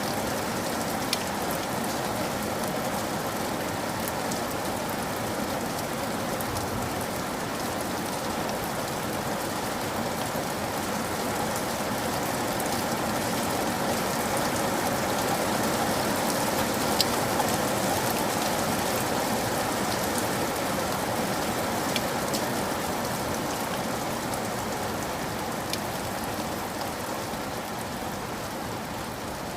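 Steady rain falling on a surface, an even hiss with scattered sharp drop impacts, swelling a little in the middle.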